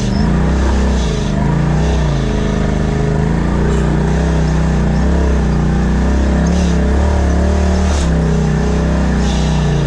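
Side-by-side UTV engine running with the throttle worked on and off, its pitch rising and falling every second or two. There is a brief sharp knock about eight seconds in.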